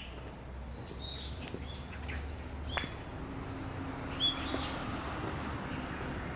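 Small birds chirping in short, high calls, with the steady hum of an approaching vehicle growing from about halfway through.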